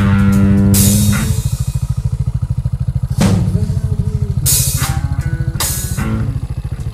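Beta Alp 200's single-cylinder four-stroke engine running at steady low revs with a fast, even pulse. A blues song with guitar plays over it, with a held note in the first second and a few short hissy bursts later.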